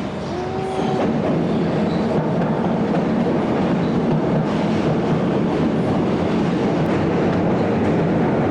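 Loud, steady rumbling noise of passing vehicles in the street, growing louder about a second in, with a brief high squeal near the start.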